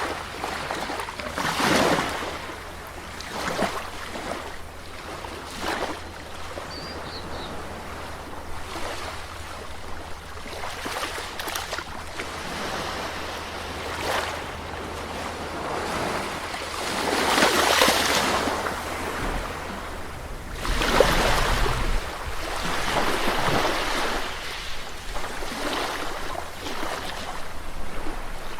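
Sea waves breaking and washing on the shore, swelling and falling away again and again, with the biggest surges about two seconds in and twice more about two-thirds through, over a steady low rumble.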